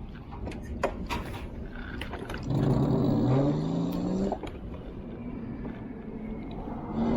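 An e-bike's electric motor whines as it pulls away, rising steadily in pitch for a couple of seconds before easing off. A few sharp clicks come just before it.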